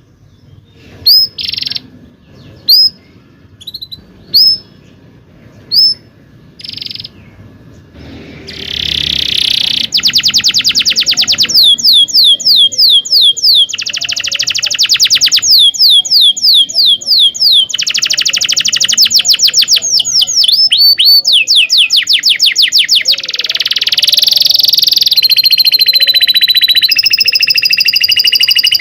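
Domestic canary singing: a few separate short high chirps about every second and a half, then, from about ten seconds in, long rapid rolling trills broken by short pauses.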